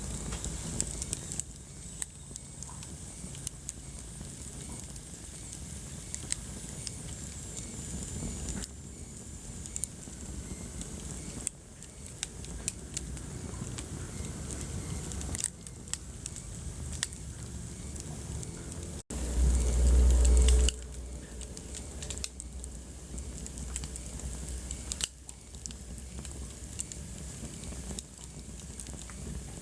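Wood fire burning in a fireplace, crackling and popping irregularly over a soft steady hiss. About two-thirds of the way through, a loud low rumble lasts under two seconds.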